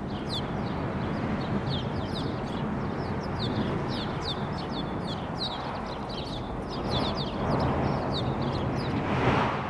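Small birds chirping over and over, many short falling chirps, over a steady rushing noise that swells near the end.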